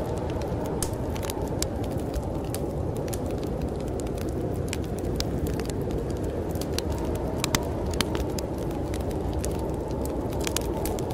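Wood fire in a fireplace crackling, with irregular sharp pops, a couple of them louder about two-thirds of the way through, over a steady low rush of storm wind.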